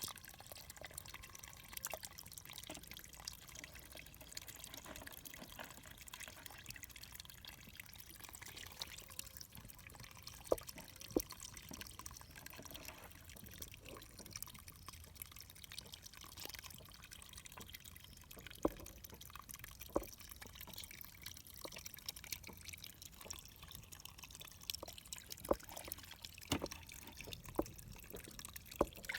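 Faint water dripping and trickling over a low steady hiss, with a handful of sharp, isolated drips or clicks standing out now and then.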